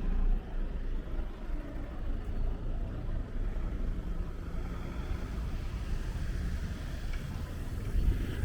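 Outdoor city street ambience: a low, uneven rumble.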